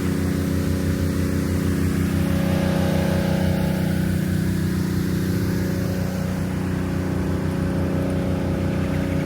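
An engine running steadily at idle, a low even hum that does not change.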